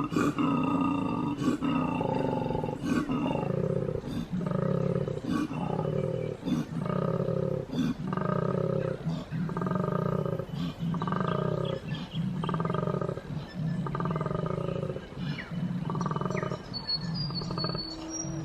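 Male koala bellowing: a long, steady run of deep, rasping pulses, about three every two seconds.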